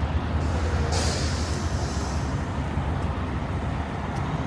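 Semi-truck diesel engine idling with a steady low rumble, and about a second in a hiss of air from the truck's air brakes that lasts about a second before fading.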